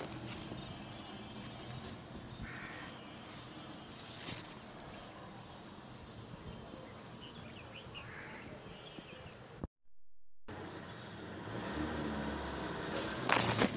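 Outdoor background noise with a bird calling twice, about two and a half seconds in and again about eight seconds in. The sound drops out for under a second about ten seconds in, and a louder noise swells up near the end.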